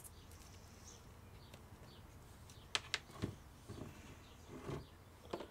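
Quiet room tone with a few faint clicks and taps from a paint jar and brush being handled, two quick clicks a little under three seconds in.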